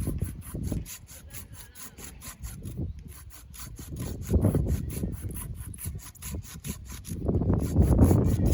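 A saw cutting through wood in uneven back-and-forth strokes, loudest near the end. Underneath runs a steady high-pitched pulsing of about four beats a second.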